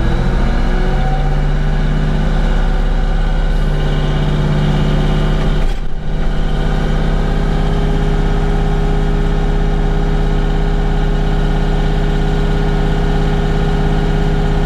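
Bobcat CT5555 compact tractor's diesel engine revving up from idle in the first second, then running steadily at raised RPM while the front loader's hydraulics strain to lift a heavy bucket. The sound dips briefly about six seconds in.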